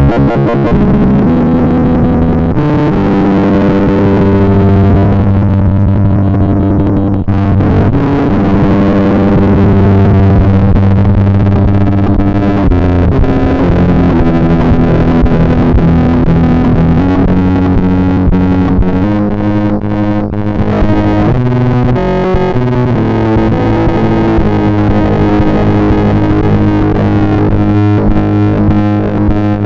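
Music led by distorted electric guitar, recorded direct into the computer without an amplifier, playing held notes and chords that change every second or two.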